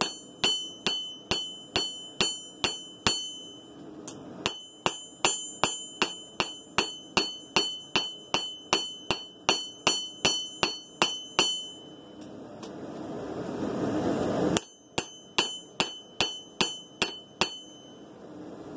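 Hand-hammer blows on a hot san mai steel blade billet on an anvil, about three a second with a bright ring, in three runs broken by short pauses. Between the second and third runs a rushing noise swells for a couple of seconds and stops suddenly.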